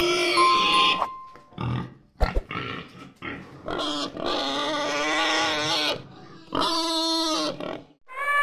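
Domestic pig squealing and grunting: a series of drawn-out, pitched squeals with short breaks between them, the longest lasting about two seconds.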